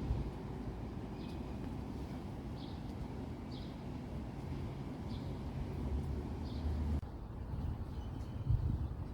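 Outdoor ambience: a steady low rumble with a small bird's short, high chirps repeating about every second, until the sound changes abruptly about seven seconds in.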